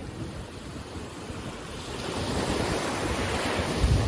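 Sea waves washing onto a beach, one wave swelling louder about halfway through. Wind buffets the microphone with a low rumble near the end.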